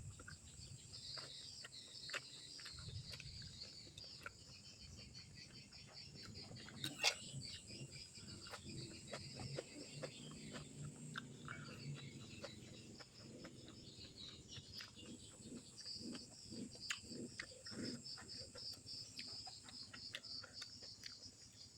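Close-miked eating sounds of a person chewing grilled fish: many small mouth clicks and smacks, one sharper click about seven seconds in. Behind them runs a steady high chirring of insects, with bird calls.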